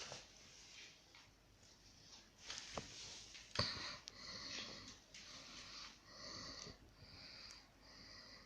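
A small animal eating dry cat kibble up close: irregular crunching and chewing with sniffing and snuffling, and a couple of sharper cracks about three seconds in.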